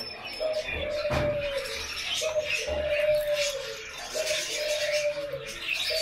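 A bird cooing: a long, level low note repeated about every two seconds, each held about a second and dipping at the end, with sharper, higher sounds in between.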